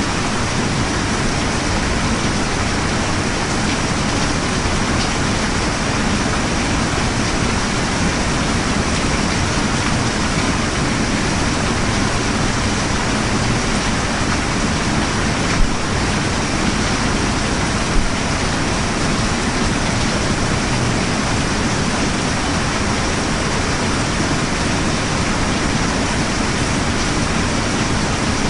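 Steady rain falling, an even hiss. Just past halfway there are two brief taps about two seconds apart.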